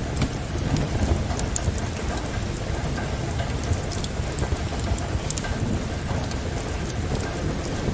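Steady rain with a low rumble underneath, mixed with scattered sharp crackles and pops from a wood fire in a fireplace.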